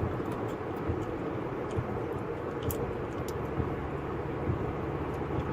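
Steady running noise of a moving vehicle: a low engine hum and road rumble with a few faint ticks.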